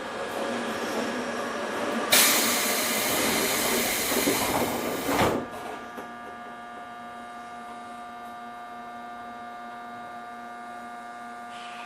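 Inside an Odakyu 1000 series electric train car: a loud burst of air hiss lasting about three seconds cuts off suddenly, leaving a steady electrical hum of several fixed tones from the car's equipment while the train stands still.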